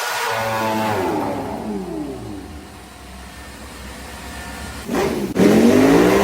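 Sportbike engine note falling in pitch and fading away over the first couple of seconds. About five seconds in it rises sharply again in a loud rev that climbs in pitch, loudest near the end.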